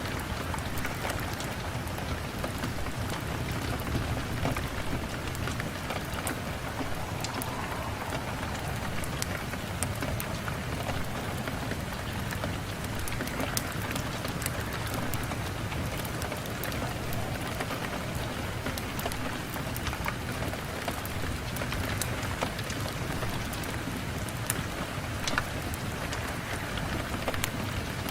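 Steady rain on a window pane, a constant hiss dotted with the small ticks of single drops.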